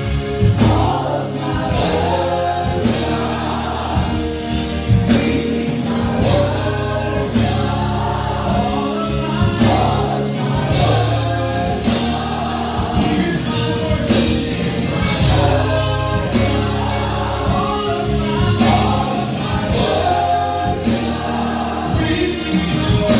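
Gospel praise song: a choir singing over a band with steady bass and drums.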